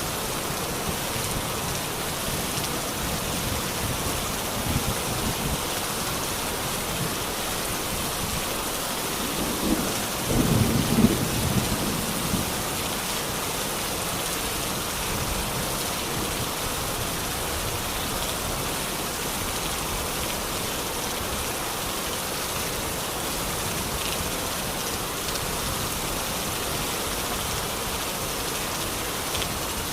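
Steady rain falling, with a short low rumble of thunder about ten seconds in.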